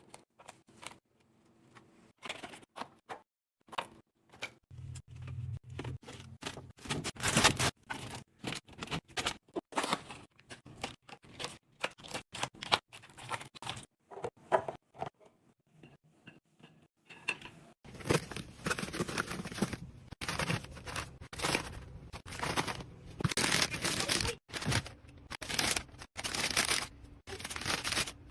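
Food packaging and containers being handled and set in place: irregular clicks, taps and rustling in quick succession, busier in the second half.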